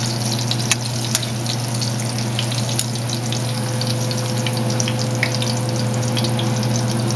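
Corn tortillas sizzling in vegetable oil in a frying pan, a steady hiss with scattered small crackles, over a steady low hum.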